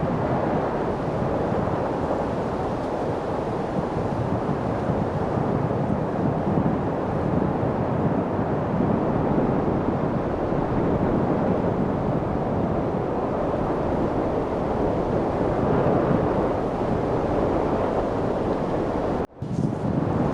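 Steady wind noise, an even rushing without distinct gusts. About nineteen seconds in it cuts out for a split second and starts again at once.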